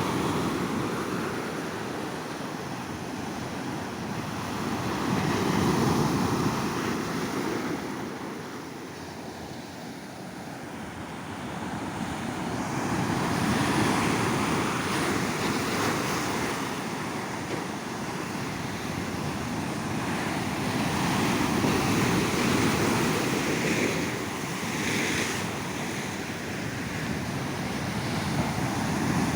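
Ocean surf: waves breaking and washing up a beach, swelling and fading about every eight seconds.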